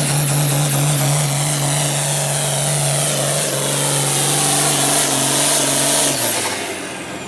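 Hot Farm pulling tractor's engine running flat out under load down the track, with a steady high whistle over it. About six seconds in the throttle comes off and the engine drops away, while the high whistle falls steadily in pitch as it winds down.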